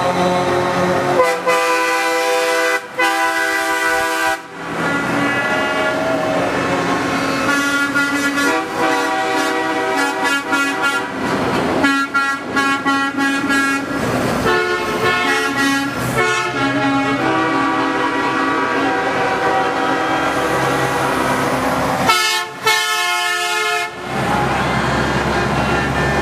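Air horns on tractor-trailer race-team haulers blowing almost without pause. Several horns at different pitches overlap and break off only briefly a few times.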